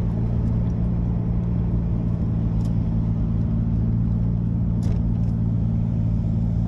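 Toyota Soarer's turbocharged 1JZ-GTE straight-six running at a steady engine speed through a new custom 3-inch exhaust with a resonator: a low, steady drone that holds the same pitch throughout.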